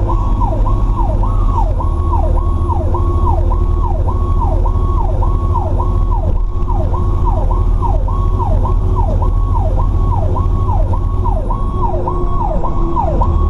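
Fire truck's electronic siren in yelp mode, a fast rising-and-falling tone repeating just under twice a second, heard from inside the cab over the steady low rumble of the truck's engine and road noise.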